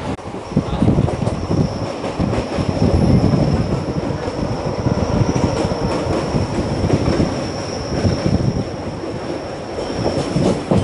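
Indian Railways passenger coach running at speed, heard from its open doorway: wheels rumbling and clattering over the rails, with a thin, steady high-pitched squeal over most of it.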